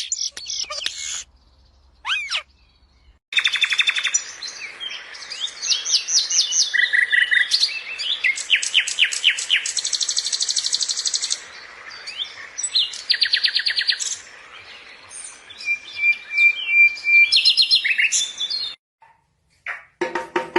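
Parrot chirping and trilling: quick runs of high chirps and fast rattling trills, broken by short pauses, with a brief steady whistle near the end.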